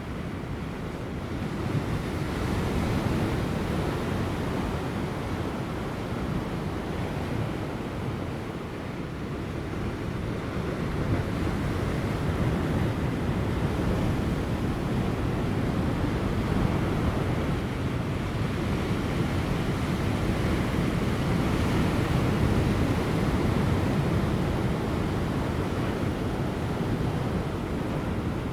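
Ocean waves crashing on offshore rocks: a continuous deep wash of surf that swells about two seconds in and again from about ten seconds on, with light wind.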